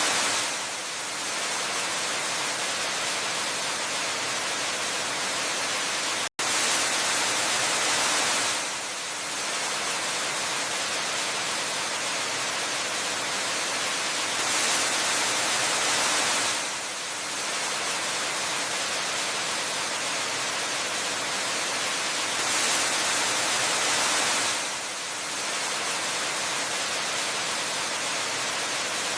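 Steady rushing of a waterfall, an even hiss-like roar that swells slightly brighter about every eight seconds. It cuts out for an instant about six seconds in.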